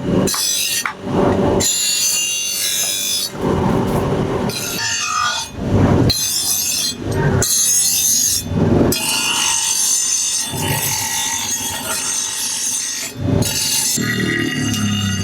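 A tool rasping across the leaf-spring steel in a series of long strokes, each a second or so, with short breaks between them, like filing or sawing by hand.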